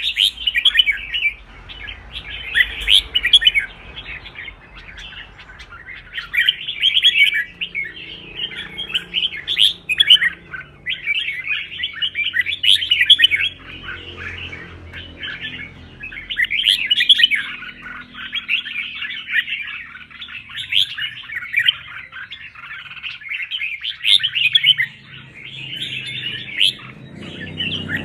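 Red-whiskered bulbul singing: bursts of rapid chirping phrases a few seconds long, one after another with short breaks.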